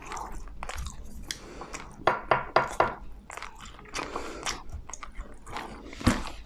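Close-miked chewing of crispy bacon: wet, crackly crunching and mouth sounds in irregular bursts, with a few sharper crunches.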